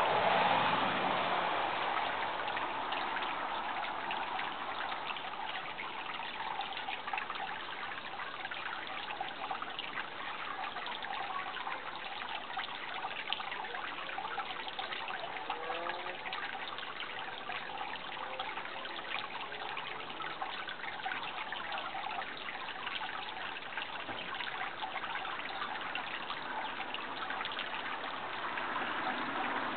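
Water of a small stream running and trickling steadily.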